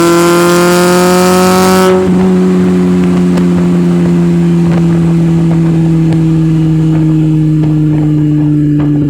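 Mazda Miata 1.6's four-cylinder engine breathing through aftermarket headers and an ISR exhaust, pulling under throttle with a slowly rising pitch. About two seconds in the throttle lifts, and the note turns softer and deeper as the revs slowly fall.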